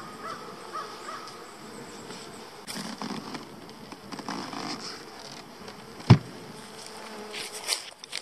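Many honeybees buzzing steadily around the hive entrance as they crowd into a small hole. A single sharp knock about six seconds in.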